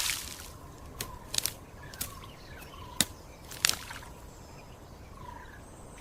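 Swamp ambience: water sloshing and dripping, with about six sharp splashes in the first four seconds over a low background hiss, and a few faint bird chirps.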